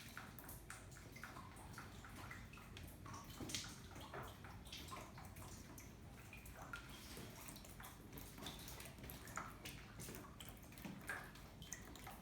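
Leaking floodwater dripping and splashing: many faint, irregular drops, some louder than others, over a low steady wash of running water.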